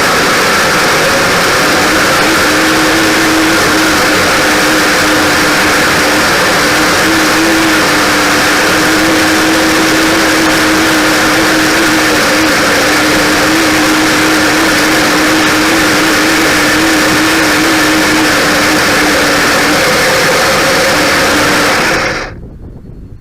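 Kyosho Blizzard radio-controlled snow vehicle running: a loud, steady motor-and-drivetrain noise with a faint wavering whine, which cuts off suddenly near the end.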